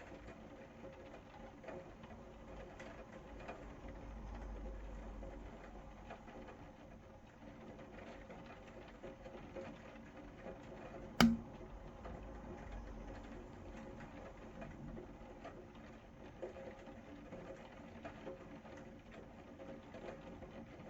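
Rain falling steadily, a soft even patter of many small drop ticks. A single sharp click about eleven seconds in stands out above it.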